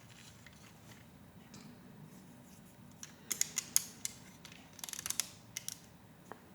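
Hard plastic Lego Technic pieces clicking and clattering as they are handled, in two short flurries of sharp clicks about three seconds in and again around five seconds, with a few single clicks after.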